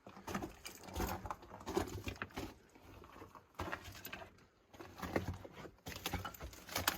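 Footsteps crunching and scuffing on loose rock and rubble on a mine tunnel floor, irregular, with a lull partway through.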